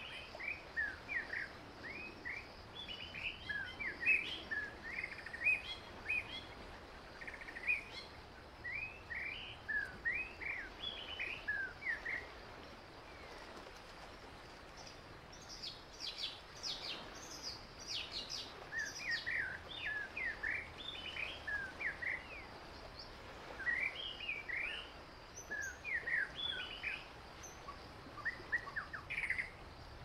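Several wild birds chirping and calling in quick clusters of short notes. A run of higher, sharper calls comes about halfway through, over a faint steady outdoor hiss.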